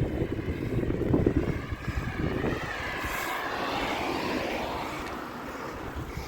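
Wind buffeting the microphone, then a motor vehicle passing on the highway, its whine wavering and falling in pitch as it goes by and fades.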